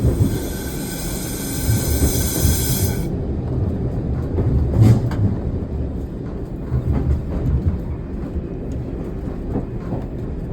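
Single-car diesel railcar running downhill, heard from the cab: a steady low rumble of wheels on the track. For the first three seconds a hiss of air with a whistling tone in it, which cuts off suddenly, as the air brake is worked.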